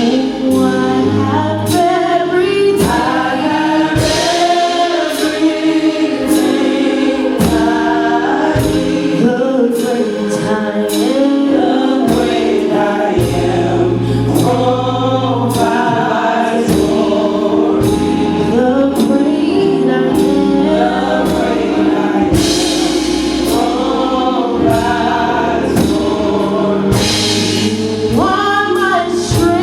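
Gospel worship song: a group of voices singing together over a band with bass and a steady drum beat.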